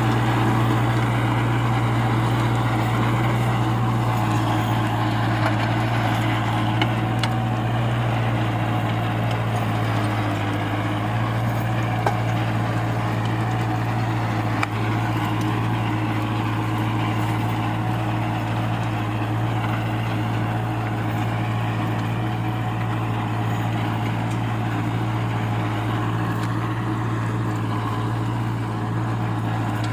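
Tractor engine running steadily at a constant speed, an even low hum that neither rises nor falls.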